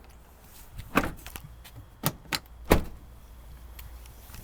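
A few sharp knocks and clicks from the cab of a pickup truck being handled, such as seat, latch and door parts, with the loudest knocks about a second in and near three seconds in.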